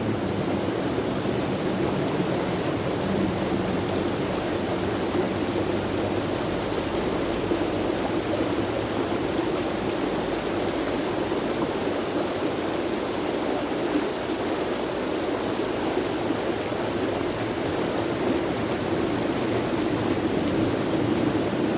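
Running water rushing steadily, like a stream or small waterfall, with an even level throughout.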